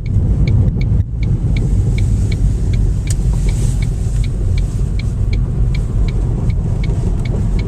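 Car's turn signal ticking about three times a second over the steady low rumble of the car driving.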